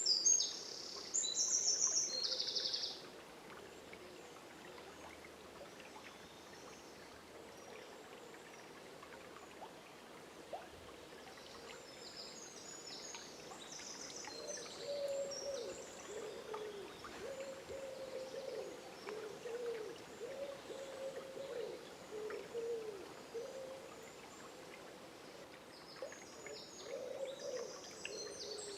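Dawn chorus by a river: songbirds sing high trilled phrases, loudest in the first few seconds and again briefly later. Through the second half a low, wavering call repeats, all over the steady wash of flowing water.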